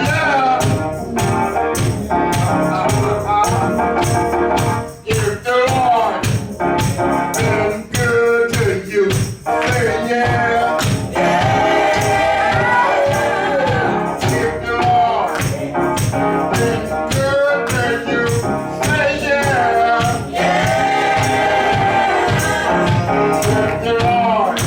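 Church worship music: singing over a band with a steady percussive beat.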